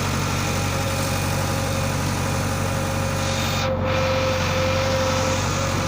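Heavy diesel machinery engine running steadily at a constant speed: a low hum with a thin steady whine above it.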